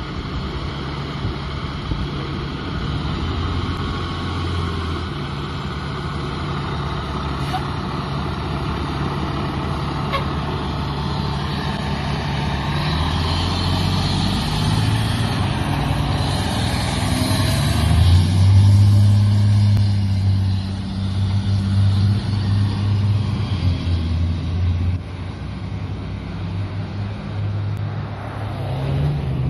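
Diesel engine of a Pierce fire engine-tanker running under way. Its low drone shifts pitch in steps and grows louder about halfway through, as it pulls harder.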